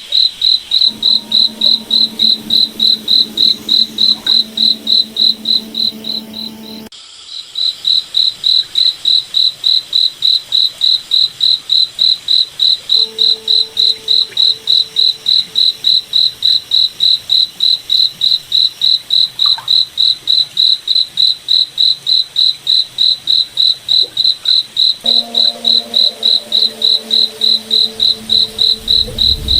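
Crickets chirping in a steady, even rhythm of about three short high chirps a second, stopping briefly about seven seconds in before resuming. A fainter low hum comes and goes beneath them.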